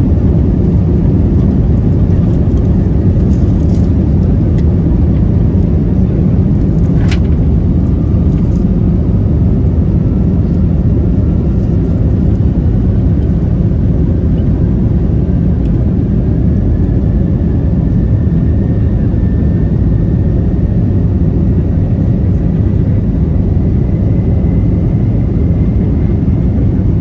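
Airbus A321neo cabin noise: a loud, steady low rumble of the engines and airflow, with a faint whine slowly rising in pitch through the second half. A short tick sounds about seven seconds in.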